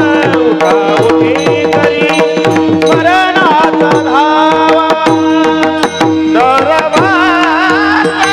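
Devotional kirtan music: a single singer holds long, ornamented notes that waver and slide in pitch, over a steady drone and a running pattern of hand-drum strokes.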